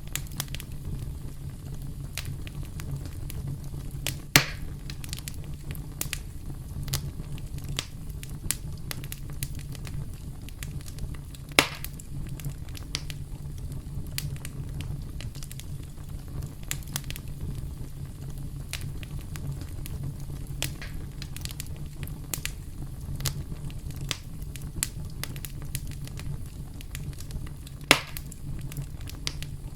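Campfire burning: a steady low rumble of the flames with frequent small crackles and three sharp, loud pops from the burning wood.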